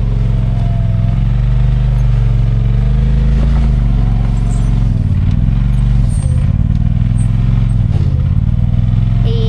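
Side-by-side UTV engine running loud and steady on a trail, its pitch dipping and climbing several times as the throttle is eased off and picked up again.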